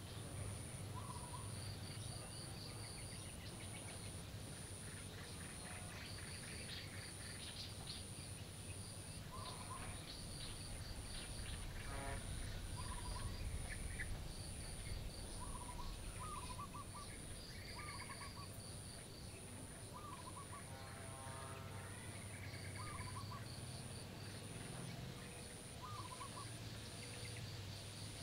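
Birds chirping and calling in short, scattered phrases, over a steady very high pulsing chirp repeating a little over once a second and a low hum.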